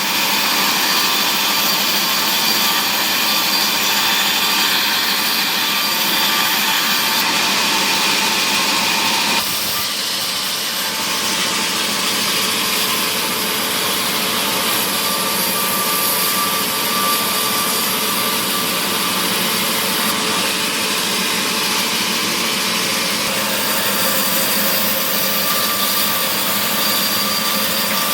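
Power saw in a wood mill running steadily, cutting mahogany, with a thin whine over a dense, even noise. The sound changes abruptly about nine seconds in.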